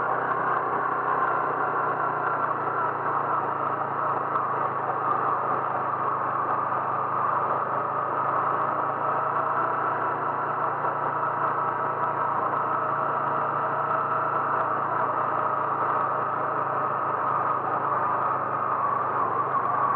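A vehicle engine running steadily, its pitch and loudness unchanging.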